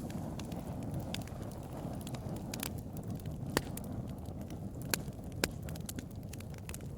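Bonfire crackling: a steady low rush of burning wood with scattered sharp pops and snaps, a few louder pops in the second half.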